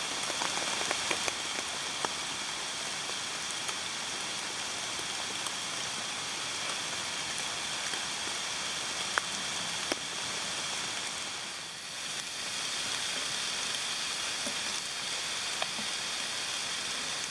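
Steady rain falling: a continuous even hiss with a few faint drop taps, dipping briefly about twelve seconds in.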